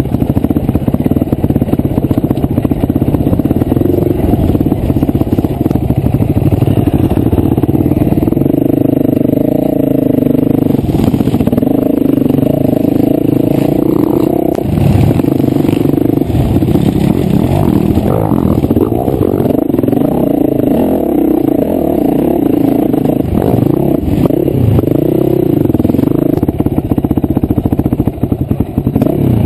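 Enduro dirt bike engine under way off-road, heard from a camera mounted on the bike. The engine pitch rises and falls as the throttle opens and closes, with occasional knocks from the rough ground.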